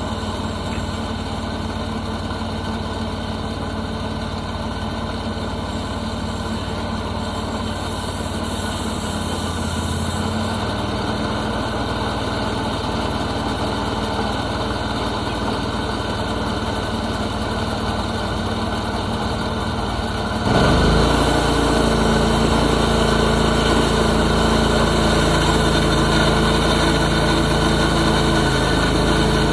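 Portable sawmill's gasoline engine running steadily. Its low hum shifts about ten seconds in, and about twenty seconds in it suddenly gets louder with a stronger, higher hum.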